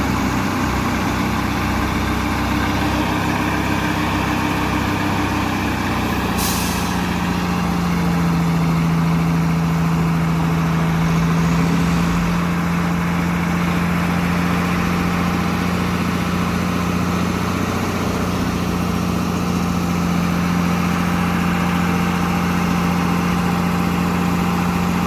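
Heavy truck diesel engine running steadily during the tow-truck recovery, with a short hiss of air about six seconds in; after it, a strong steady low engine hum comes in and holds to the end.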